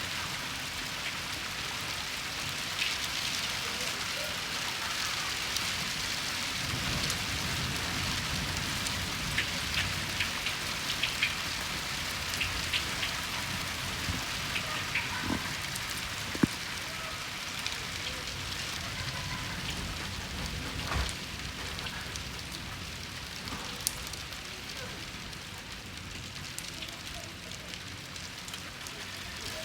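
Steady rain during a thunderstorm, a continuous hiss with many sharp drops ticking on a nearby surface and a few louder single drips.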